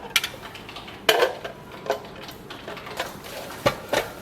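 Hard plastic parts of a wireless rain gauge clicking and knocking as its upper cover is fitted onto the base: about six sharp clicks, the loudest about a second in.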